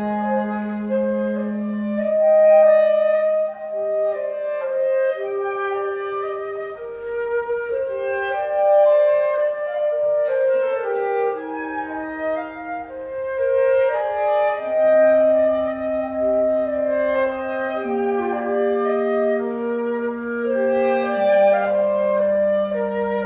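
Woodwind trio of flute, C clarinet and B-flat clarinet playing a classical chamber piece: the lowest part holds long notes, shifting pitch a few times, under the higher parts moving in shorter notes.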